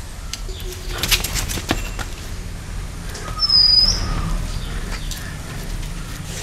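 A short, high, thin bird whistle that flicks upward at its end, about halfway through. It comes after a quick run of sharp clatters about a second in.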